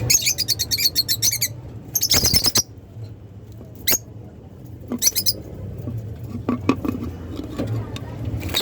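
Lovebirds chirping in rapid, shrill bursts: a long run of quick chirps at the start, another about two seconds in, then shorter single calls and brief bursts.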